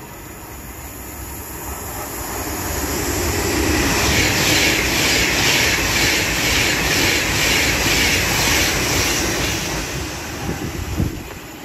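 Avanti West Coast Class 390 Pendolino electric train approaching and passing at speed: wheel and air rush builds to a loud peak, pulses with a regular beat of about two a second as the carriages go by, then dies away near the end.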